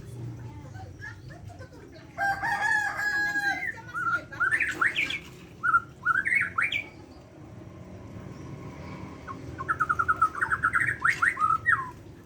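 Bornean white-rumped shama singing: a rich phrase of whistled notes about two seconds in, a string of quick sweeping notes from about four to seven seconds, and a fast run of repeated notes from about ten seconds until near the end.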